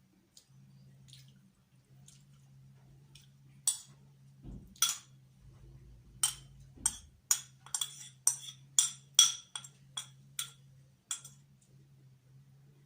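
Cutlery clinking and scraping against a plate during a meal: after a few faint taps, a quick run of about twenty sharp, ringing clinks, roughly two to three a second, from about four seconds in to near the end. A steady low hum runs underneath.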